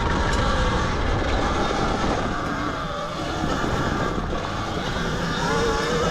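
Zero XB electric dirt bike being ridden through soft sand: a thin electric-motor whine that shifts in pitch over a steady, dense rush of noise.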